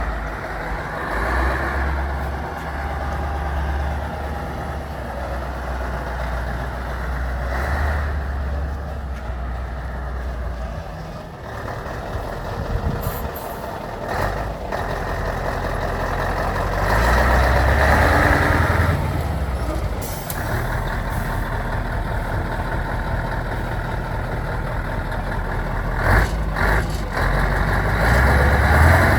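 Scania truck's diesel engine running steadily at idle while it airs up, with a few short sharp clicks or hisses. It grows louder for a stretch about midway and again near the end.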